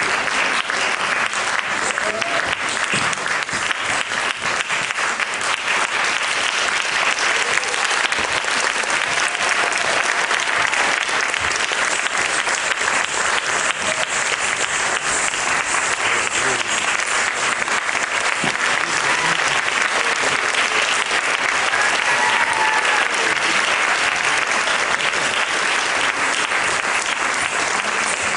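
Audience applauding steadily in a long, continuous round of clapping, with faint voices heard through it.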